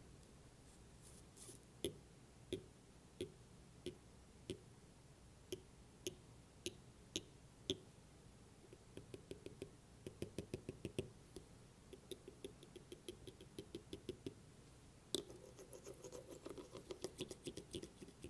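Light, crisp tapping on an AirPods case cover and an Apple Pencil: single taps about every half second, then quick flurries of rapid taps, with one sharper knock followed by a fast run near the end.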